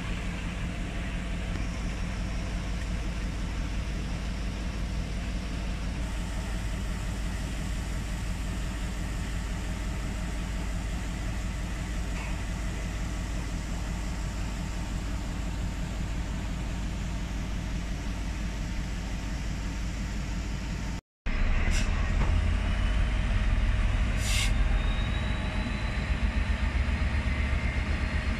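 GB Railfreight Class 66 diesel locomotive hauling tank wagons past, its two-stroke V12 engine a steady low rumble under the rolling of the wagons. After a brief cut about two-thirds of the way in, the locomotive's rumble is louder, with two sharp clicks and a faint rising whine.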